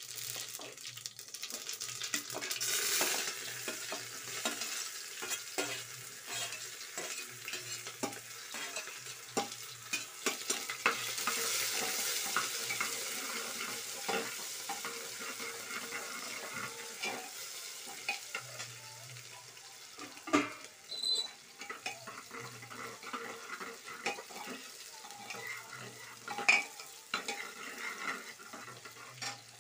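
Chopped onion and cumin sizzling in hot oil in an aluminium pressure cooker, stirred with a metal spoon that scrapes and clinks against the pot. The sizzle is loudest in the first dozen seconds, and a couple of sharper clinks stand out in the second half.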